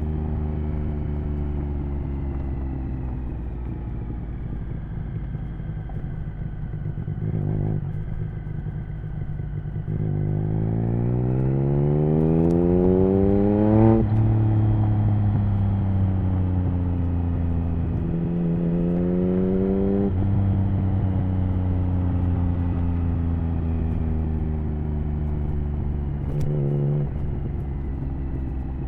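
Triumph Speed Triple 1050's inline three-cylinder engine through an HP Corse Hydroform exhaust with the dB killer fitted, heard from the rider's seat. It runs steadily for about ten seconds, then revs up hard and drops in pitch at an upshift, holds steady, revs up again and shifts a second time, then cruises steadily.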